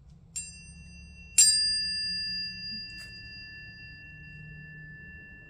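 Tuning forks struck twice, about a second apart, the second strike louder. Their clear, high tones ring on together and slowly die away.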